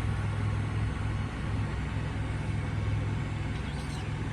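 Boat motor idling steadily, a low even hum; the speaker reports it running without issues and still spitting out cooling water.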